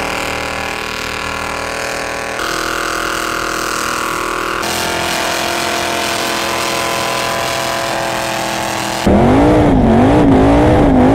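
Supercharged 427 big-block Chevrolet V8 of a 1963 Cadillac Coupe DeVille burnout car held at high revs during a burnout, steady in pitch with sudden jumps to a new pitch about two and five seconds in. About nine seconds in it gets louder, heard from inside the cabin, with the revs swinging rapidly up and down.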